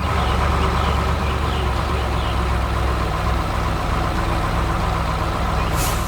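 Heavy engine of a construction machine running steadily with a deep, even rumble. It starts suddenly at full level.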